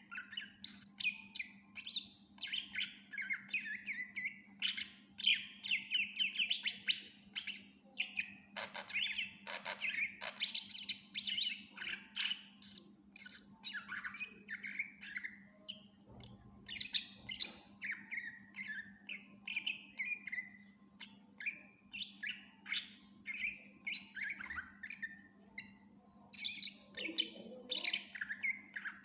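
Green leafbird (cucak ijo) singing a continuous, rapid, varied song of chirps, trills and mimicked phrases from other birds' songs. A steady low hum runs underneath.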